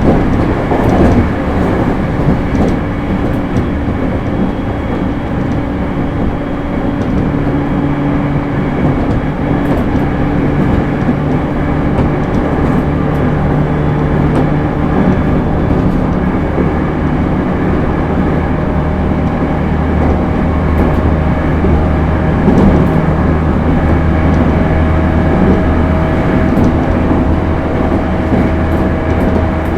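JR East E231 series 1000 suburban electric train running, heard from inside the car: a steady running noise with the hum of its Hitachi IGBT inverter and traction motors, the tone shifting a few times.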